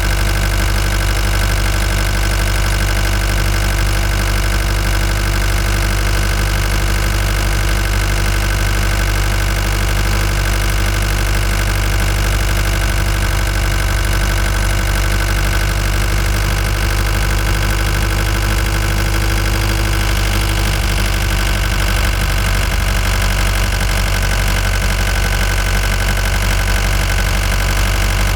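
Ford Transit Mk5 van engine running at a steady, unchanging pitch.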